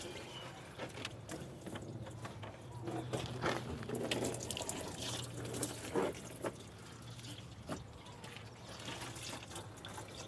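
Engine coolant draining from a Chevrolet Silverado's opened radiator drain plug, pouring and splashing, with a few sharp knocks.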